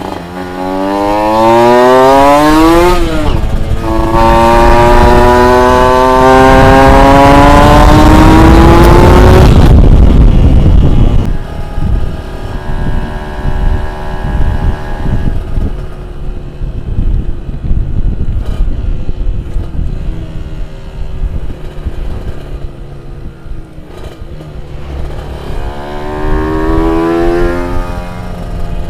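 Highly tuned 150 cc two-stroke motorcycle engine revving hard, its pitch climbing, breaking at a gear change about three seconds in, then climbing again until about ten seconds. It then falls back to lower, uneven running and rises once more near the end.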